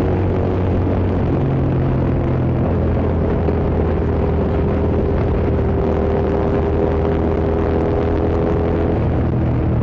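Hyosung GT650's V-twin engine running steadily while the motorcycle is ridden, its pitch holding nearly level with small shifts, over a steady rush of wind and road noise.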